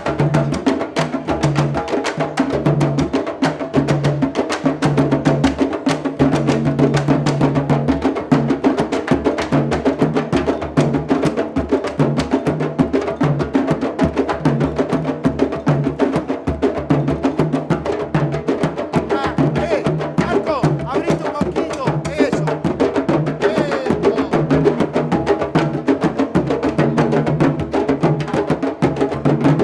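Candombe drums (chico, repique and piano), their heads tightened over fire, playing together in a dense, driving rhythm. Open hand strokes mix with sharp clicks of the sticks on the wooden drum shells.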